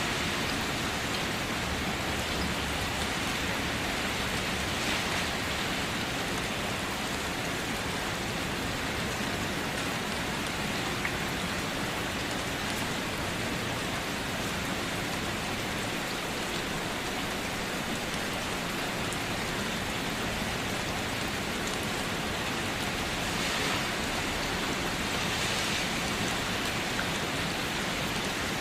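Steady rain falling, an even hiss of many drops with slight swells now and then.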